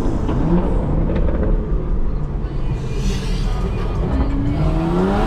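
Loud BMW exhaust running under load in traffic, a steady low rumble that rises sharply in pitch near the end as the engine revs up hard.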